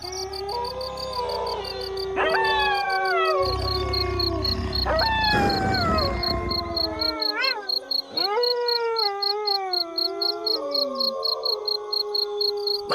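A pack of wolves howling in chorus: several long howls overlap, rising and then sliding down in pitch, while one low howl is held steady beneath them. A fast, even insect trill pulses high above throughout.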